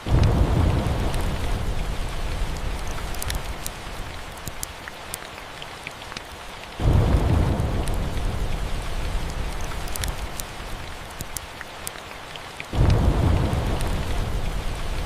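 Steady rain with three rolls of thunder, each starting suddenly and fading slowly: one at the start, one about seven seconds in, and one near the end.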